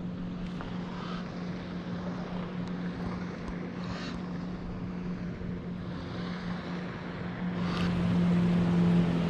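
A distant motor's steady drone at one low held pitch, growing louder over the last couple of seconds, with wind noise on the microphone.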